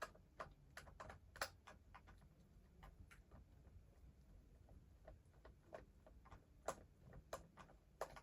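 Faint, irregular clicks and taps of small plastic toys and packaging being handled, with no steady rhythm.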